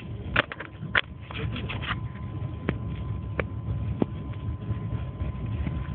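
Passenger train running along the track, heard from inside the coach as a steady low rumble, with a faint steady whine and several sharp clicks and rattles, the loudest in the first second.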